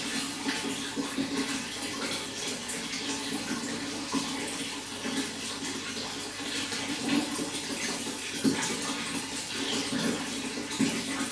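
Running water, a steady flow with many small irregular splashes.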